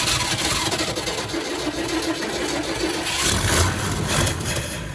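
Old Ford F-Series truck engine cranking over on its starter without catching, dying away near the end. It is not getting fuel: the owners think the fuel pump's diaphragm is probably worn out.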